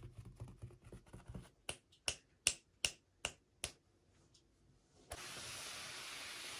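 Small objects handled by hand: about six sharp clicks or snaps, spaced a little under half a second apart. Then, about five seconds in, a steady hiss starts.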